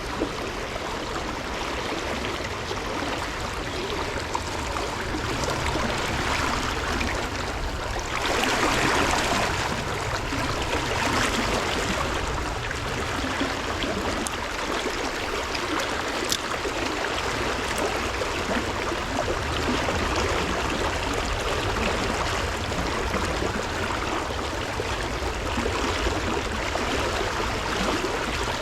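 Stream water flowing steadily, a continuous rushing that swells a little for a couple of seconds near the first third.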